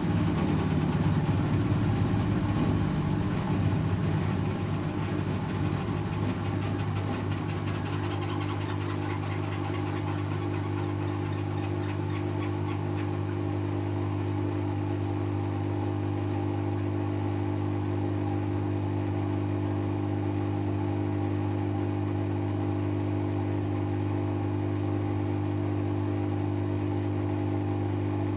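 Servis Automatic M3008B washing machine spinning at up to 800 rpm in its intermediate spin, a steady mechanical hum. The rumble eases a little over the first few seconds, then holds even.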